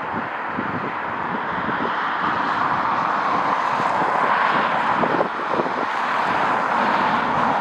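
Airliner jet engines making a steady rushing noise that grows a little louder about three seconds in, with gusts of wind buffeting the microphone.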